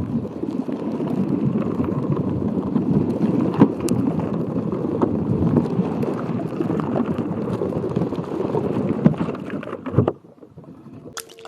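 Water sloshing and gurgling close to the microphone, with scattered small clicks, stopping abruptly near the end.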